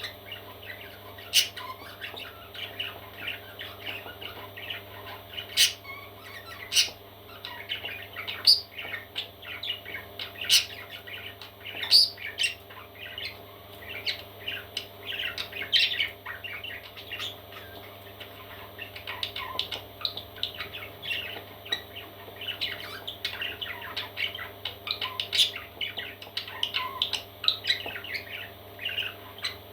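Parrot chicks squawking and chirping in a quick, continuous chatter of high calls, with several sharper, louder squawks standing out, over a faint steady hum.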